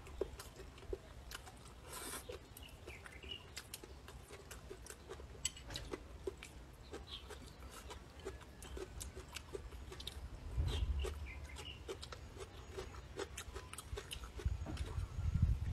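Close-miked chewing and mouth sounds of someone eating a rice dish with stir-fried meat and vegetables, many small irregular clicks and smacks. A couple of low rumbles come through about two thirds of the way in and again near the end.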